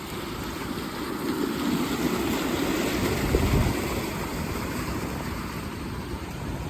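Rain-swollen creek running in flood: a steady rush of fast-moving water, with a brief low rumble about three seconds in.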